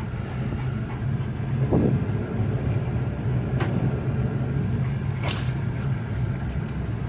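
Pickup truck driving, heard from inside the cab: a steady low rumble of engine and tyres. A short pitched squeak comes about two seconds in, and there are two sharp knocks later on.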